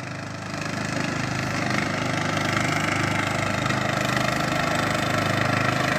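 Briggs & Stratton engine of a riding lawnmower running as the mower is driven. It grows louder over the first couple of seconds, then holds a steady note.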